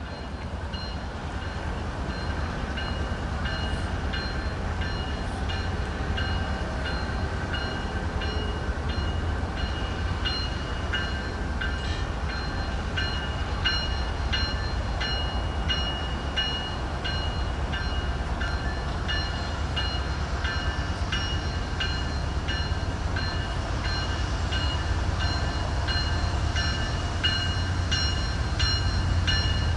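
Freight train rolling past: a steady heavy low rumble with short high-pitched squeals coming and going throughout.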